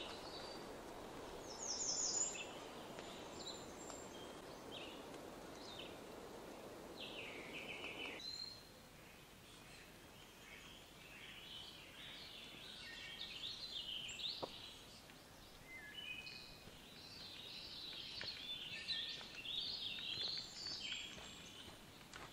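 Forest birds singing, with several overlapping songs, chirps and trills that grow busier in the second half. A steady rushing hiss lies under them for the first third and cuts off suddenly.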